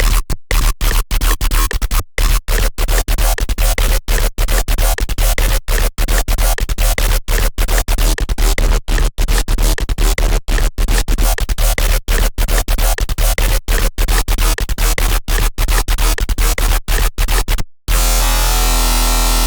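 Serum wavetable synthesizer patch built from an AI-generated image, played as a harsh, noisy sound chopped into rapid irregular stuttering hits over a steady deep sub-bass. Near the end it cuts out and a sustained buzzy tone with the same deep bass takes over.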